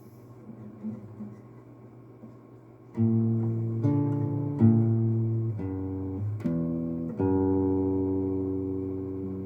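Acoustic guitar playing chords. After about three quiet seconds with small faint noises, it strikes a run of chords that change about once a second, then lets the last chord ring and fade.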